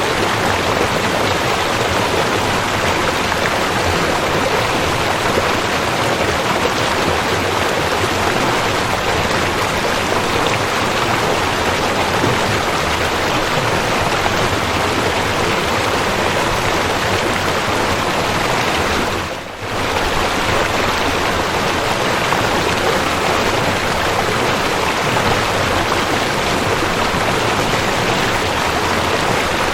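Waterfall: a steady, dense rush of falling water, with one brief dip in level about two-thirds of the way through.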